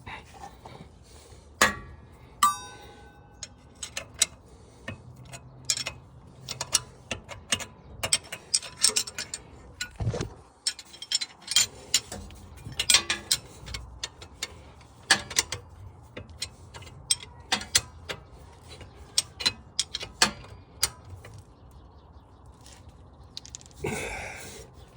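Ratchet wrench clicking in short, irregular runs as exhaust bolts are tightened, with a metal clink that rings briefly about two seconds in.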